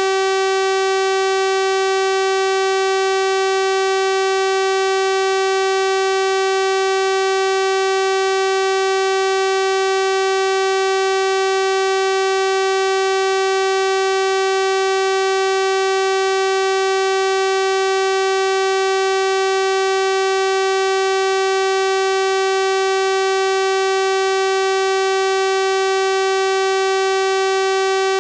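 Synthesized 384 Hz sawtooth-wave tone, held steady and unchanging, with a bright, buzzy full set of overtones.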